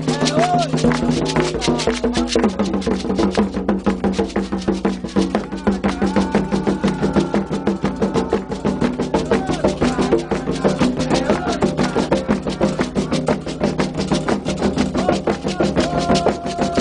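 Candomblé ritual music: a fast, steady drum and percussion rhythm with voices singing over it.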